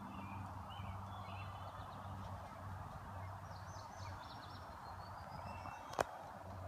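Beagles baying in the distance while running a rabbit trail, their voices blending into a wavering chorus. Small birds chirp over it, and there is one sharp click near the end.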